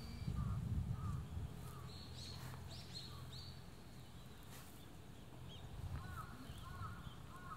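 Small birds calling with short, repeated chirps, a run near the start and another from about six seconds in, with a few higher notes in between, over a low background rumble.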